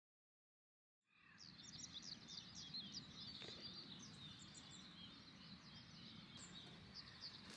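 Silence, then outdoor ambience fades in about a second in: small birds singing in many quick, high chirps over a faint steady hiss.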